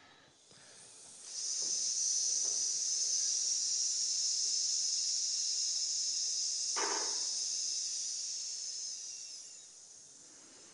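A man exhaling the lung sound of the Taoist Six Healing Sounds: one long, steady "sssss" hiss through the teeth that fades out near the end. There is a brief vocal sound about two-thirds of the way through.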